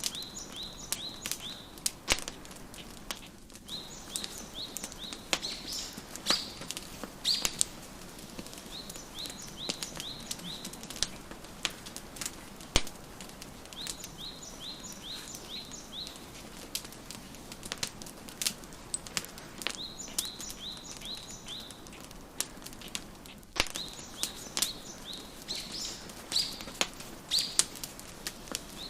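Wood fire crackling with frequent sharp pops, layered with birdsong: a small bird gives quick runs of high chirps in phrases of a second or two that come back every few seconds.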